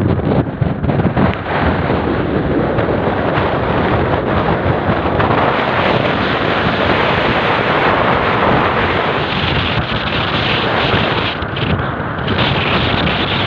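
Strong wind buffeting the microphone at sea: a loud, steady rushing noise.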